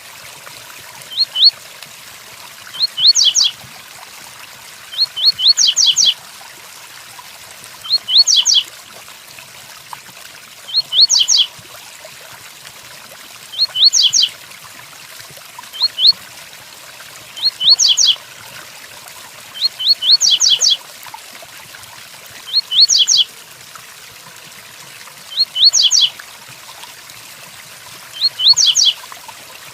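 A double-collared seedeater (coleiro) repeats its short 'tui-tui' song phrase about every two to three seconds. Each phrase is a quick run of two to four sharp, high rising whistles. A steady hiss of rain runs underneath.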